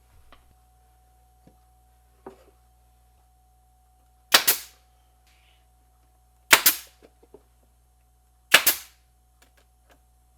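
A nail gun firing three times, about two seconds apart, each a single sharp crack as it drives a fastener into wood, with a few light knocks of handling between shots.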